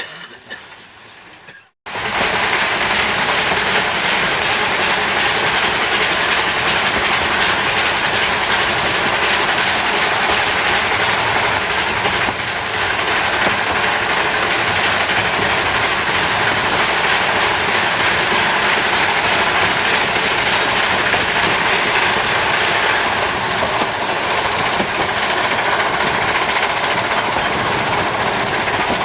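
Narrow-gauge train running along the track: a loud, steady rush of wheel and rail noise that starts abruptly about two seconds in and keeps on evenly.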